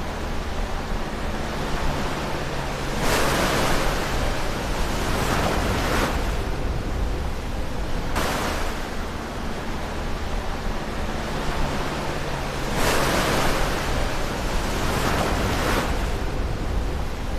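Ocean waves breaking close to the shore, a continuous rushing surf that swells into two louder breakers about 3 seconds in and again about 13 seconds in, with a shorter surge in between.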